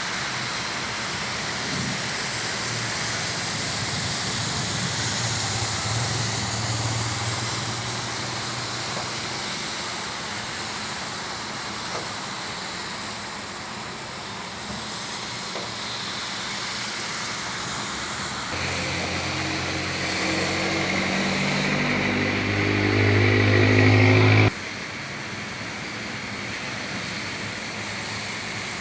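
Steady hiss of rain mixed with city road traffic. Near the end a motor vehicle's engine grows louder and then cuts off suddenly.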